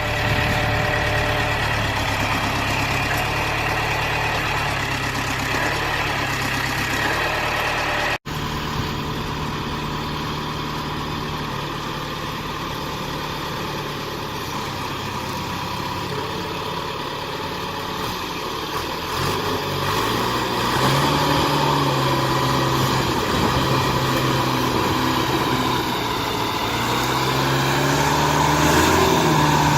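A vehicle engine running steadily, with a brief break about eight seconds in, then revving up and down repeatedly in the later part while working under load to free a tractor stuck in mud.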